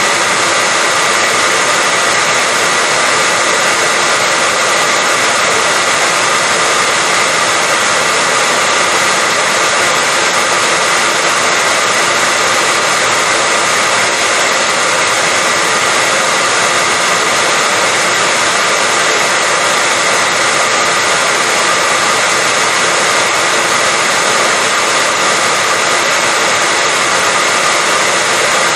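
Hair dryer running steadily: a continuous rush of blown air with a faint, steady high motor whine.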